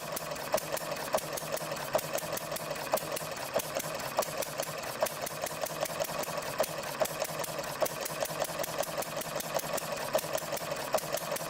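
One-third scale working model of the 1887 Benz four-stroke gasoline engine running on a test bench, with a steady, rapid mechanical ticking at an even rhythm.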